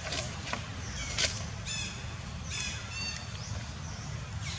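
Birds chirping in short, repeated high-pitched phrases that dip in pitch, over a steady low rumble. A few sharp clicks come through, the loudest about a second in.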